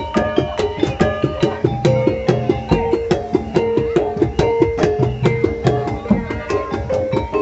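Live East Javanese gamelan music for a bantengan dance: hand drums beat a fast, steady rhythm under ringing metal percussion notes that hold and change pitch.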